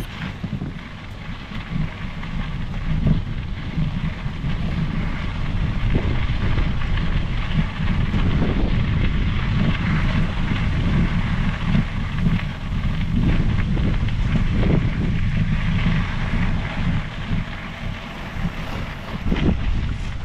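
Wind buffeting the microphone over the tyre and drivetrain noise of a Specialized Epic Pro mountain bike rolling along a trail, with scattered small knocks from bumps.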